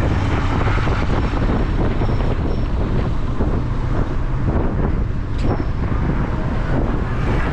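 Steady vehicle and road noise with wind buffeting the microphone.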